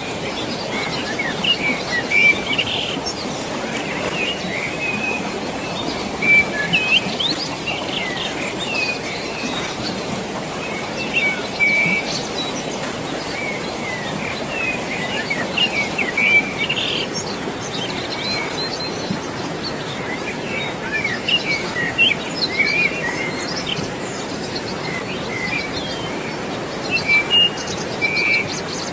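Birds chirping in many short calls over a steady rush of flowing water.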